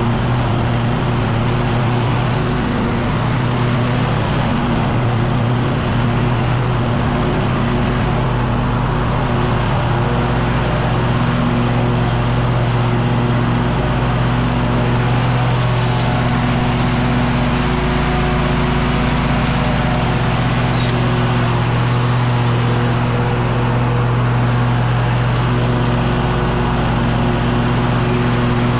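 Echo PB-9010T two-stroke backpack leaf blower running steadily under throttle, an engine hum with fan rush, the tone shifting slightly about ten seconds in.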